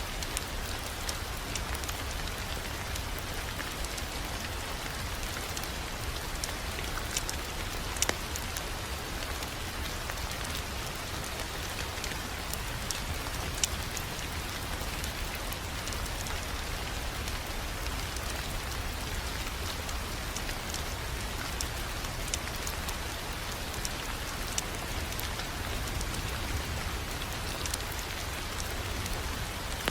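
Wood fire crackling in a fireplace: a steady hiss with many small scattered pops and crackles, and a sharper pop about 8 seconds in and another near 13 seconds.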